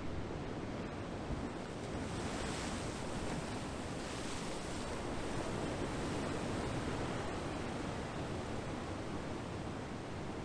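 Sea waves breaking and washing on a shore, a steady rush of surf that swells brighter and hissier about two seconds in and eases off after about five seconds.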